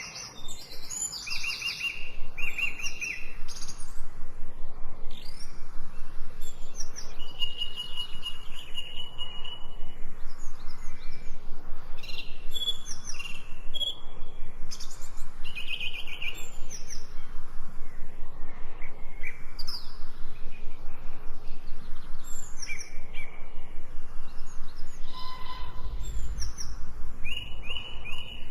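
Several songbirds chirping and calling over one another, a mix of short chirps and quick repeated-note trills.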